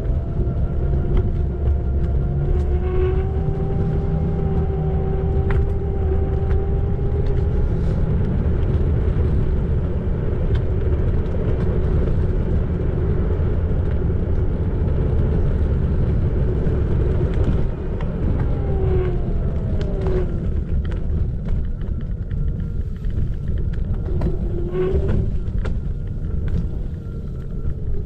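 Xiaomi Electric Scooter 4 Pro on the move: the electric motor whines over a heavy rumble of wind and tyres. The whine climbs slightly in pitch over the first several seconds. It slides down and fades out about two-thirds of the way in, then briefly comes back near the end.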